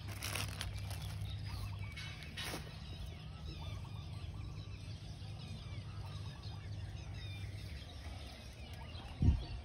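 Birds calling faintly over a steady low rumble, with a short thump near the end.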